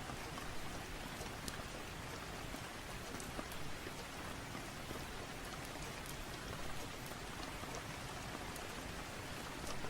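Steady rain falling, an even hiss with scattered faint clicks.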